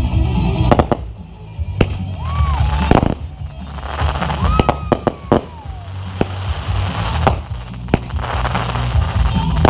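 Fireworks going off: a run of sharp bangs and crackling bursts, some close together, over music with a steady bass line.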